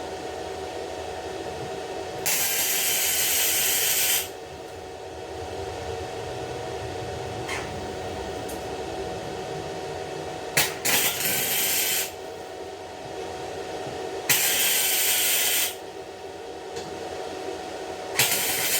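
Arc welder laying short spot welds: four separate bursts of crackling hiss, each a second and a half to two seconds long, the last starting near the end, over a steady hum.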